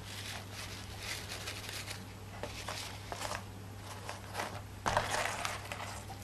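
Faint rustling and light handling noises, loudest about five seconds in, over a steady low hum.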